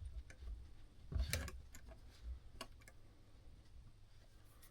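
A few light, irregular metallic clicks and taps from brass clock-movement parts and small tools being handled on the bench. The strongest cluster comes about a second in, then it goes quiet.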